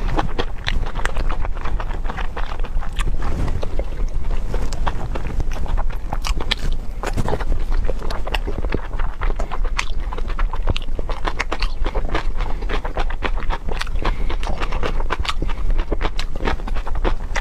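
Close-miked chewing: a dense, irregular run of wet mouth clicks and smacks.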